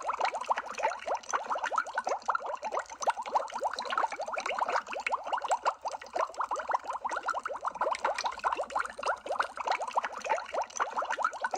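Water bubbling in a continuous, dense stream: many small bubbles, each a short blip rising in pitch, several every second.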